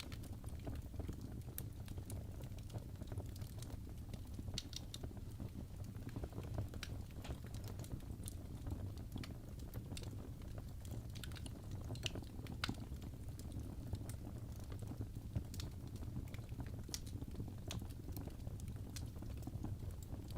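Logs burning in a fireplace, crackling with irregular sharp pops over a low, steady rumble of the flames.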